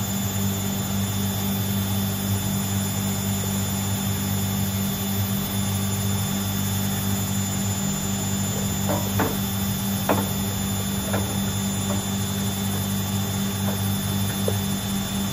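Washing machines running with a steady motor hum and a few light clicks around the middle.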